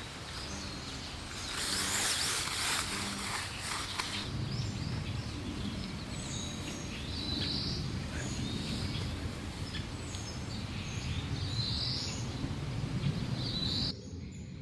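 Birds chirping outdoors: short high calls repeated every second or so over a low outdoor background. A brief rush of noise comes in the first few seconds, and the sound changes abruptly near the end.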